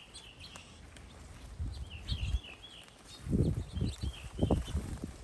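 Small birds caught in bird netting chirping over and over in short warbling phrases. A run of dull low thumps comes about a second and a half in and again from about three to five seconds, louder than the birds.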